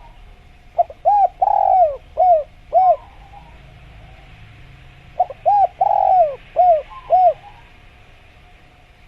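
Spotted dove cooing: two phrases of about five rounded, rising-and-falling coos each, a few seconds apart.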